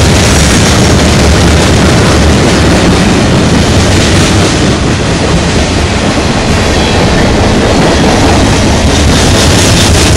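Train rolling past close by: a loud, steady rumble and rattle of wheels on the rails.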